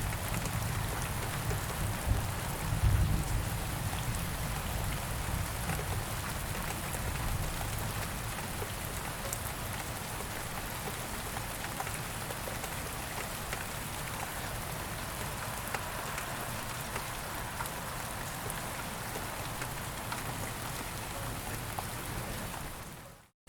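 Steady rain falling, with a low rumble of distant thunder in the first few seconds. The sound fades out just before the end.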